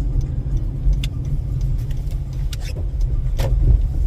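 Car interior noise while driving: a steady low engine and tyre rumble heard from inside the cabin, with a few scattered clicks and knocks.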